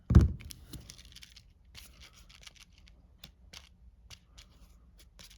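A dull thump on the work table, then scattered small clicks and papery rustles as a glued card-stock cut-out is handled and pressed down onto a card base.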